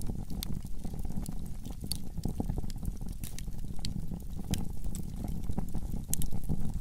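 Wood fire burning in a fireplace: irregular sharp crackles and pops, several a second, over a steady low rumble of the flames, with a louder burst of pops about six seconds in.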